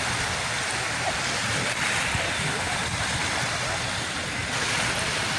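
Sea surf washing onto the shore as a steady, continuous rush of water.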